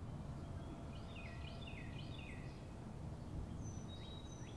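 Birds calling: a quick run of falling chirps in the first half, then a few short high whistled notes, over a low steady background rumble.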